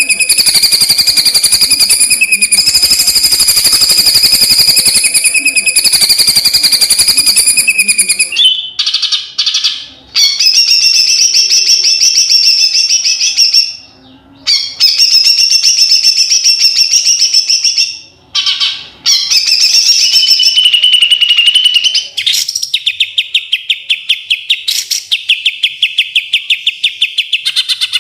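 Songbird singing in long, fast, buzzy trills: one unbroken trill for about the first third, then several trill phrases split by brief pauses, and a quick stutter of separate notes near the end.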